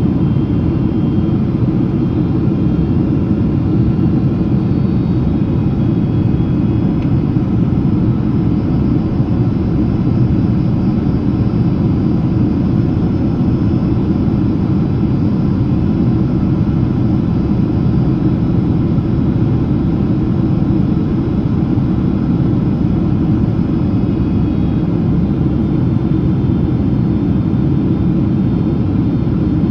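Steady cabin noise of a Boeing 767-300ER in descending flight: a loud, even rumble of engines and airflow heard from a passenger seat, with a few faint steady whine tones above it.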